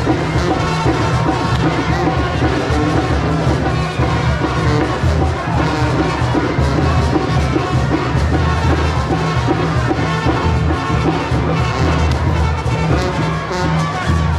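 Loud band music with brass instruments and drums playing without a break.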